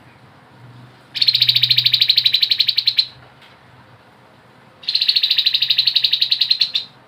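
Grey-headed babbler (tepus kepala abu) giving two long, rapid rattling trills of its 'ngebren' song, each about two seconds long, the second starting about two seconds after the first ends.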